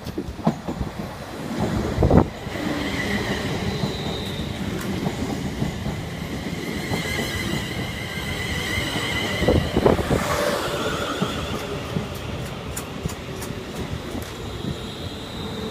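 An electric train on the rails running past, with a steady rumble, high wavering whining tones above it, and sharp knocks of the wheels over the track about two seconds in and again near ten seconds.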